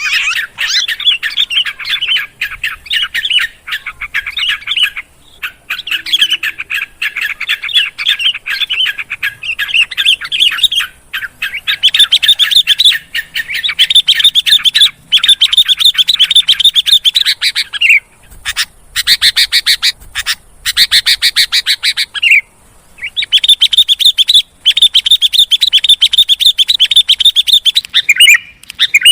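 Sooty-headed and yellow-vented bulbuls in loud, agitated chatter: rapid chirps in runs of a second to three seconds with short breaks. This is the noisy call used as a lure to draw in other birds.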